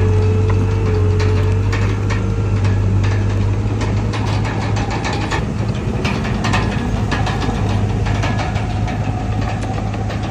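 Komatsu D31PX crawler bulldozer's diesel engine running steadily under a low drone, with a continuous scatter of sharp metallic clicks and clanks.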